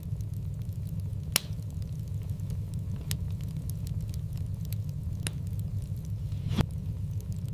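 Wood fire in a fireplace crackling: a steady low rumble under many small crackles, with a few sharp, louder pops, the strongest about a second and a half in and near the end.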